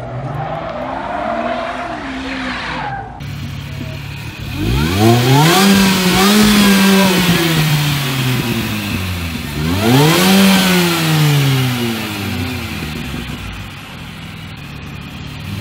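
A car engine revved hard twice, each time the pitch climbing quickly, holding for a few seconds and then falling away slowly. A shorter, softer rev comes first.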